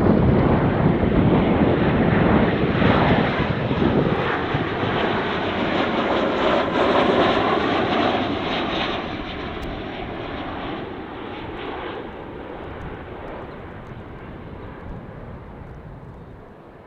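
Jet airliner on short final passing close by on its landing approach. Its engine noise is loudest at the start and fades steadily as it moves away, with tones that slide down in pitch as it passes.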